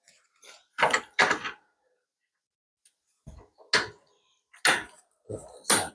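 Irregular metal clanks and knocks from hand tools and truck suspension parts being handled during a front-end teardown, about half a dozen short hits with pauses between them, most of them in the last two seconds.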